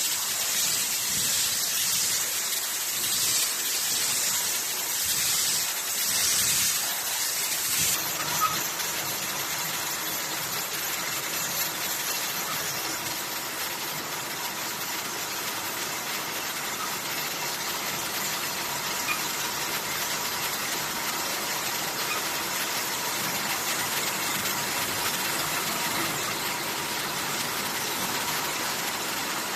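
Aerosol production line machinery running. For the first eight seconds or so, repeated hisses of pneumatic air or spray pulse. After that comes a steady machine noise with a faint high hum.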